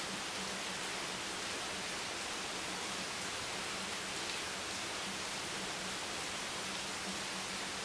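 Steady rain hiss, an even, unbroken wash with no separate drops, over a faint low hum that comes and goes.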